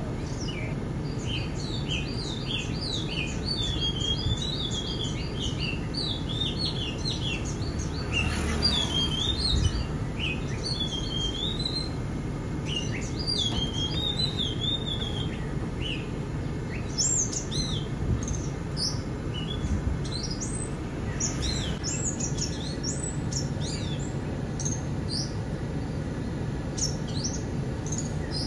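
Several birds chirping and singing, a busy mix of quick repeated chirps, trills and warbling phrases, over a steady low rumble. A short louder rush comes about nine seconds in.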